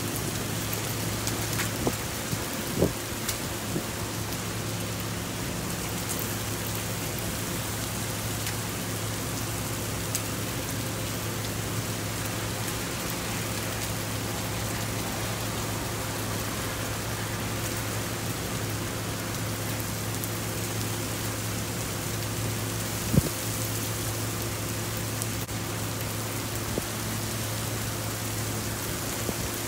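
Heavy rain pouring steadily onto pavement during a thunderstorm, with a steady low hum underneath. A few sharp taps stand out, the loudest about 23 seconds in.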